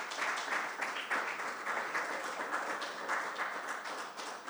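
Audience applauding, a dense run of many overlapping hand claps that begins to thin out near the end.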